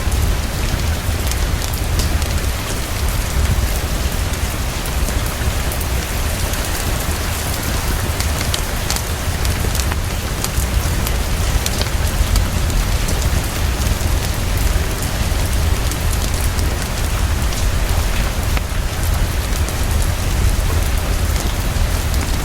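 Heavy, fast, steady rainfall over a continuous deep rumble, with scattered faint crackles from a fireplace.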